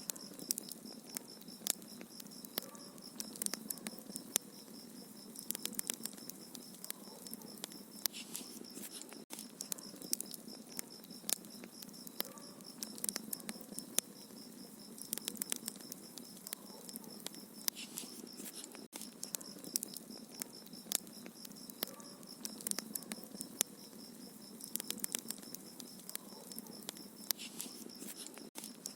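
Wood fire crackling in a fireplace: many small sharp pops and snaps over a soft low rush, with a brief dropout about every ten seconds where the sound loops.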